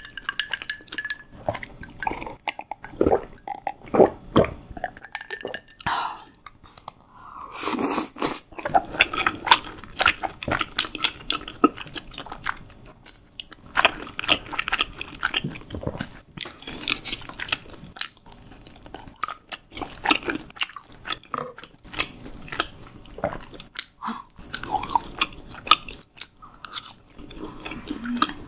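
Close-miked eating: a steady run of bites, crunches and chewing of crisp fried snack food, with one louder crunch about eight seconds in.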